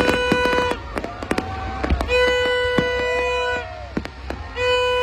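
Fireworks bursting with sharp bangs and crackles in quick succession, over a steady blaring horn note held about a second and a half at a time, sounding three times, with a shorter wavering tone in between.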